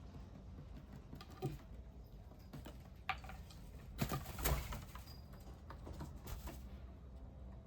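Birds at a bird bath and feeder: scattered light pecks and taps, a few brief chirps, and a short rustling flurry about four seconds in, over a steady low hum.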